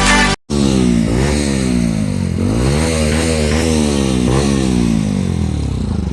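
Motorcycle engine running while riding, its pitch rising and falling several times as it accelerates and changes gear, over a steady rush of wind and road noise.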